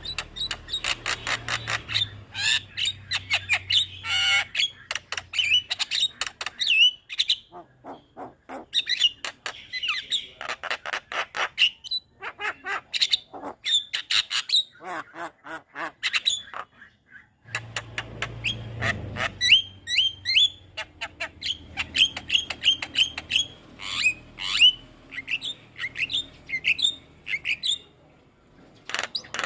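Javan myna (jalak kebo) singing energetically: fast runs of sharp, repeated chirps mixed with squawky notes, broken by short pauses.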